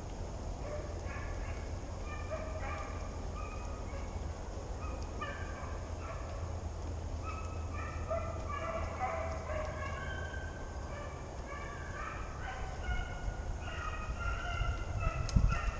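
A pack of hunting hounds baying on a deer dog drive: many short calls overlap in a continuous chorus, growing a little louder near the end.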